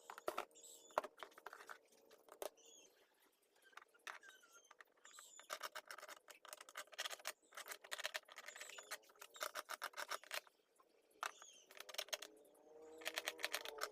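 Faint, irregular clicks, taps and light scraping of small electronic parts and a plastic speaker housing being handled during a Bluetooth speaker repair, with a few short high chirps in the background.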